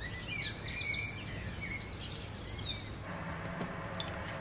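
Small birds chirping outdoors in short high calls, with a fast trill of repeated notes about a second and a half in. The birdsong gives way about three seconds in, and a single sharp click sounds near the end.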